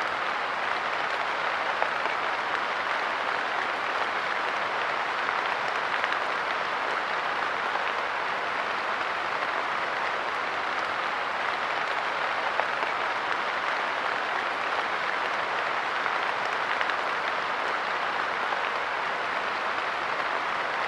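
Light rain falling steadily on a park bench, a dense even patter with a few single drops standing out louder.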